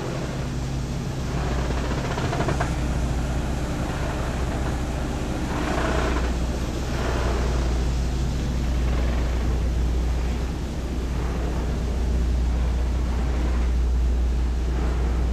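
High-speed ferry's diesel engines running with a steady low drone, heard on deck with wind noise on the microphone that gusts louder about six seconds in.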